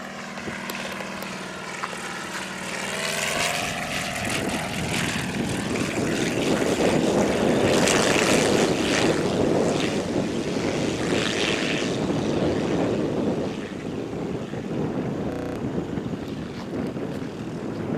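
Propeller engine of a Fokker triplane replica, its tone rising over the first few seconds. It gives way to a loud rushing noise that peaks about eight seconds in and carries on.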